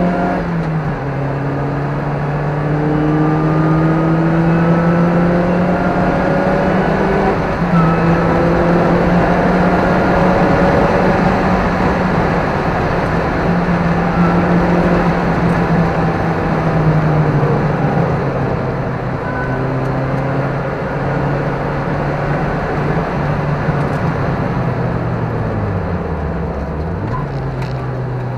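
Car engine heard from inside the cabin at speed over heavy road and wind noise. The note climbs and steps back down several times as the car goes up through the gears, then drops low briefly near the end and rises again.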